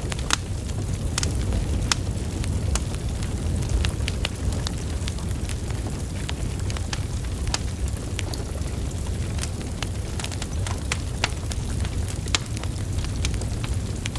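Wood fire burning: a steady low rumble of flames with frequent sharp crackles and pops from the burning logs, scattered irregularly throughout.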